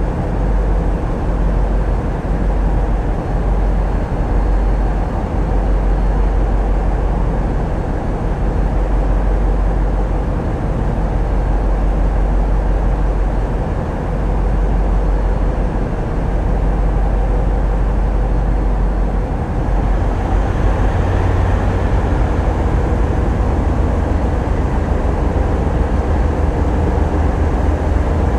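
Tugboat's diesel engines running under load with a steady, loud drone; about two-thirds of the way through the low hum steps up in pitch as the power changes.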